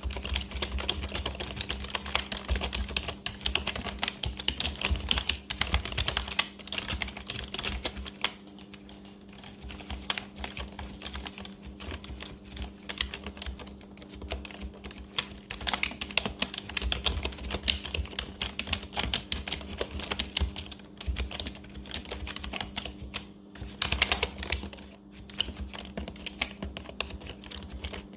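Typing on a computer keyboard: rapid, irregular keystroke clicks that keep going in busier and lighter runs. A faint steady hum sits underneath.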